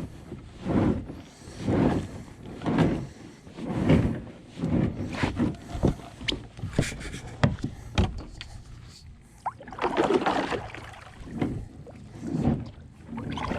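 Water sloshing and splashing around a kayak in rhythmic surges about once a second, with a few sharp knocks against the hull near the middle.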